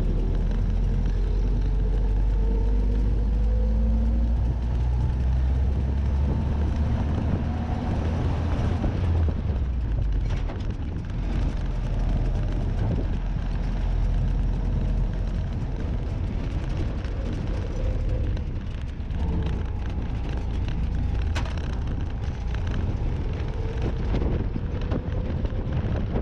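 Willys Jeep engine running with a steady low rumble, with scattered knocks and rattles from about ten seconds in.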